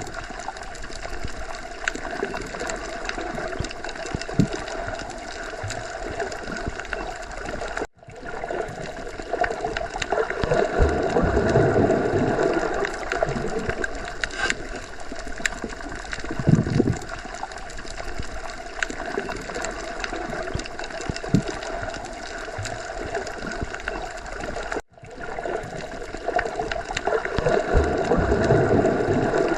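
Underwater sea ambience: a continuous muffled wash of water that swells and ebbs slowly, with scattered faint clicks. The sound drops out briefly twice, about eight seconds in and again near twenty-five seconds.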